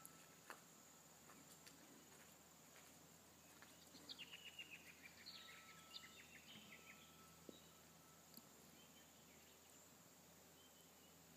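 Near silence: faint outdoor ambience, with a small bird singing a quick run of short notes that step down in pitch about four seconds in, followed by a few more scattered notes.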